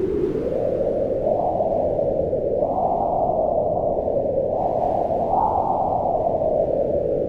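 Wind blowing in a steady low rush that swells and eases in slow gusts, strongest in the middle and easing near the end.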